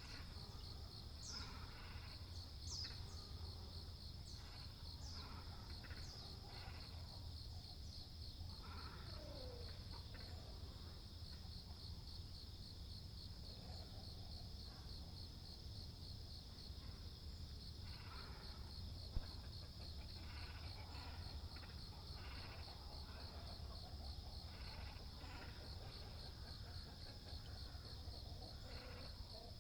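Great cormorants and herons calling in irregular bouts of harsh, guttural croaks and squawks, over a steady high-pitched insect trill. A few short, high chirps come near the start, and there is a single sharp click about two-thirds of the way through.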